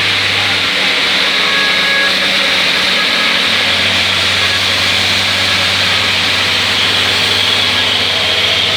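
Steady cabin noise of an intercity bus under way: a low engine hum under a constant hiss of tyres on the wet road.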